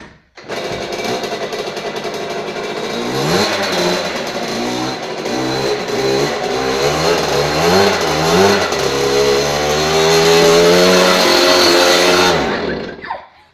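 Dirt bike engine revving hard during a burnout in a garage, with the rear tire spinning in place. The revs rise and fall repeatedly, then hold high for a few seconds before dropping away near the end.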